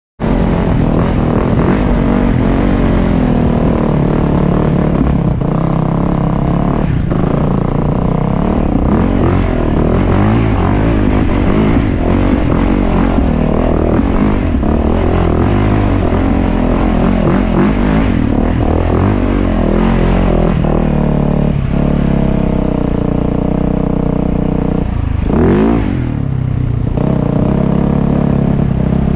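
2019 Yamaha YZ450FX dirt bike's 450 cc single-cylinder four-stroke engine working under load on a slick muddy hill climb, revs rising and falling continually, with one sharp rev rise and drop about 25 seconds in.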